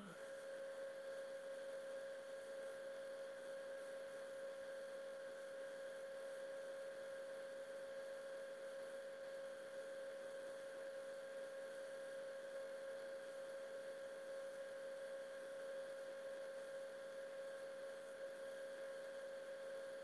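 A steady, faint electronic hum: one unchanging mid-pitched tone with fainter higher tones above it, over a soft hiss.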